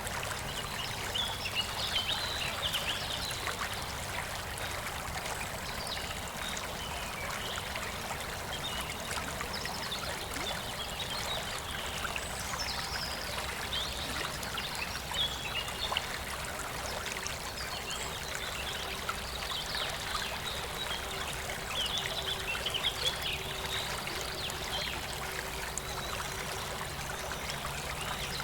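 Waterfall water rushing steadily, with small birds chirping and singing on and off over it.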